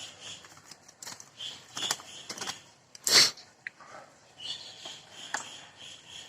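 Scattered clicks and short scraping noises from handling a bird cage while its droppings are cleaned out, with one louder scrape about three seconds in.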